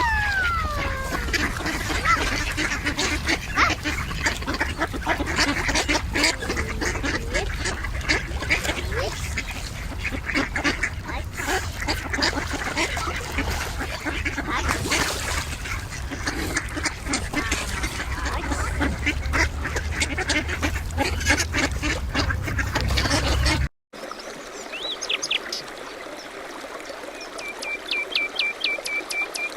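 A flock of waterfowl calling, many voices overlapping over a steady low rumble. It cuts off suddenly about 24 s in; after a quieter stretch a small bird chirps and gives a short rapid trill near the end.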